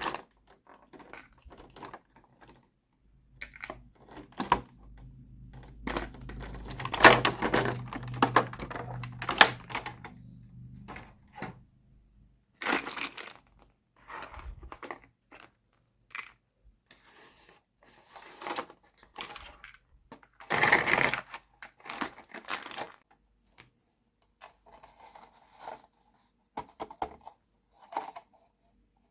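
Small plastic toy kitchen pieces clicking and tapping as they are handled, with plastic packaging crinkling in short bursts. A low hum sits under the handling for several seconds in the first half.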